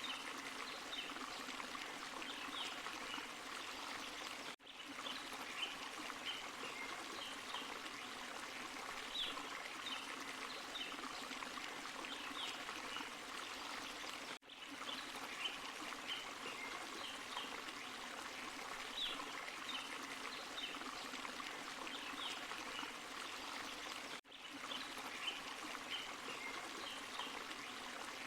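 Forest stream and small waterfall splashing steadily over rocks. The sound cuts out for a moment three times, about ten seconds apart.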